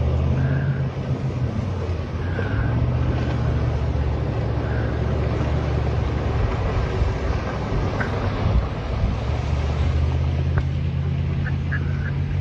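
A boat's engine running steadily with a low drone, over a constant hiss of rushing noise.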